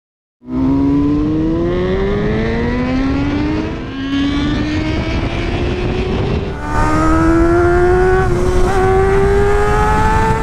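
A 1999 Honda CBR 600 F4's 599 cc inline-four engine accelerating hard. The engine note climbs steadily and drops back at each upshift, three times, as it pulls through the gears.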